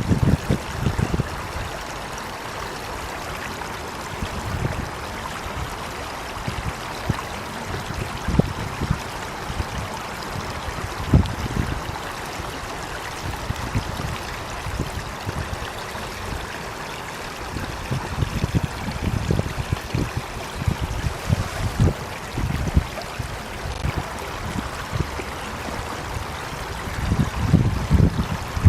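Running water with a steady rush, like a stream, with irregular low rumbles that come and go, heavier near the start and the end.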